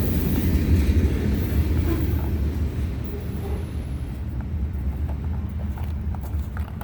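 A train passing close by: a steady, loud low rumble of wheels and cars on the rails, with high-pitched rail hiss that fades about halfway through.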